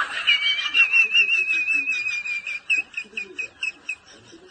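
A high, warbling whistle-like call: one long wavering note held for about two seconds, then a run of short chirps, about three a second, that stop near the end.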